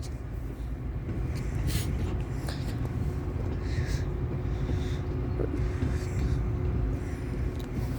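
Metra commuter train moving through the station: a steady low rumble, with a faint steady tone from about a second in until near the end.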